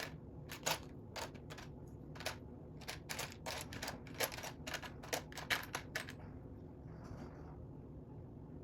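Small plastic Lego pieces clicking and clattering against each other as they are handled and picked through: an irregular run of sharp clicks, thinning out and going quieter after about six seconds.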